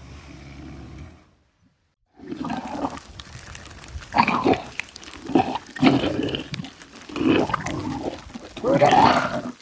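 Pig grunting: a string of short, loud calls that starts about two seconds in, after a brief silence.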